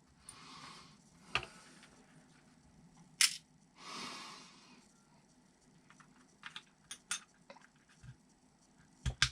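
Scattered sharp clicks and taps of small hard parts being handled and fitted on a workbench, the loudest about three seconds in, with two soft breaths between them.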